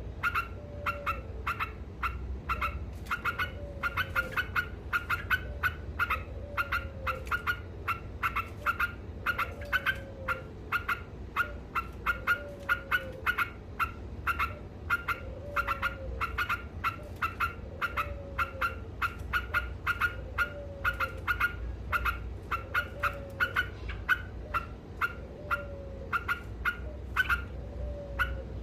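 Yellow-vented bulbul (trucuk) singing in a continuous rapid chatter ('ngekek'), short sharp notes several times a second without a break. A lower falling note comes back about every two and a half seconds.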